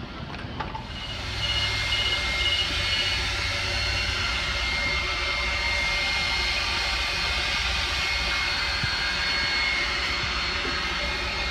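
Coin-operated car wash vacuum running: a loud, steady rush of air with a high motor whine. It comes on about a second in, with a few short beeps as it starts.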